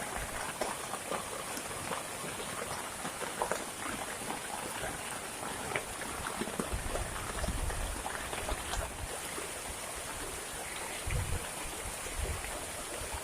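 Heavy rain falling steadily, with many drops ticking sharply on nearby surfaces. Low rumbles swell up about halfway through and again near the end.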